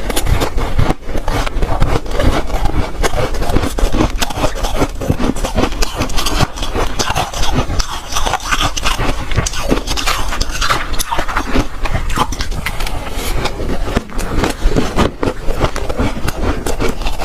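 Close-miked crunching and chewing of soft ice: a dense, irregular run of crisp crackles and crunches from bite after bite.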